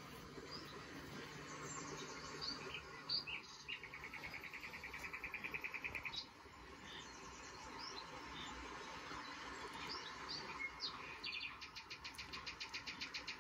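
Birds chirping: short high chirps with two rapid trills, one about four seconds in lasting a couple of seconds, and another starting near the end.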